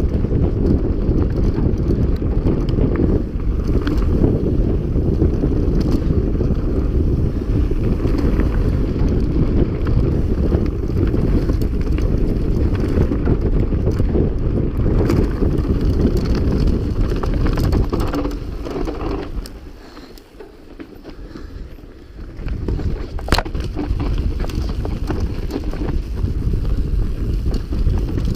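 Mountain bike riding fast over a dirt trail: heavy wind noise on the camera's microphone, with tyre rumble and scattered knocks. The noise eases for a few seconds about two-thirds of the way through, then a sharp click and the noise returns.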